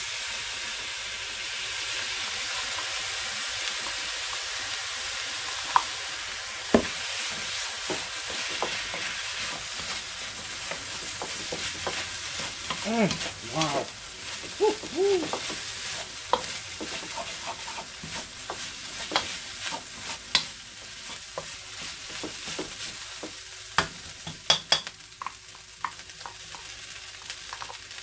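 Rice, chicken and shrimp frying in a wok over high heat with a steady sizzle that swells at the start as buttery juices are poured in. A wooden spatula scrapes and knocks against the wok as the rice is stirred, giving sharp clicks throughout.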